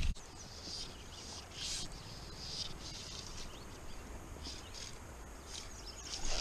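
Birds chirping faintly, short high calls coming every second or so.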